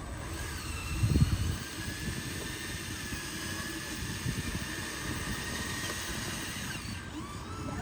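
Electric motor and gearbox of a radio-controlled construction truck whining steadily, its pitch drifting slightly, with a low thump about a second in.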